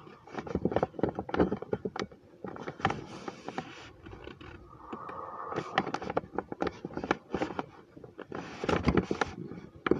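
Plastic dollhouse toys being handled and moved: a rapid, irregular run of small clicks and knocks with scraping, and a brief hum about five seconds in.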